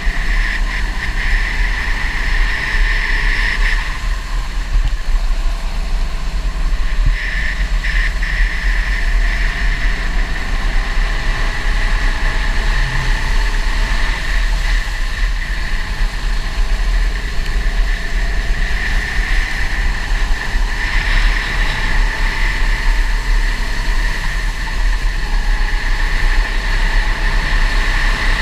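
Go-kart engine running continuously, its pitch rising and falling with the revs. Heavy low rumble from wind and vibration sits underneath.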